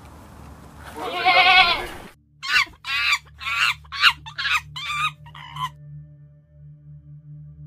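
A young goat bleats once, a wavering call about a second in. After a cut, a run of about seven short, fairly high animal calls follows, then only a faint low hum.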